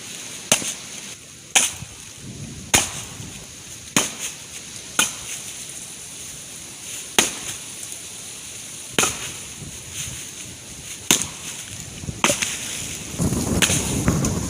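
Axe blows splitting chainsaw-bucked wood rounds: about ten sharp chops, one every second or two at an uneven pace.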